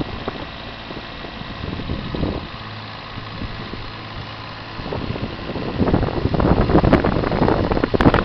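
Digger engine running steadily, getting louder and rougher about five seconds in.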